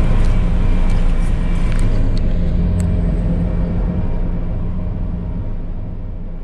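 Vehicle engine running steadily at low speed while being driven in to be parked, with a few faint clicks; the sound fades down gradually toward the end.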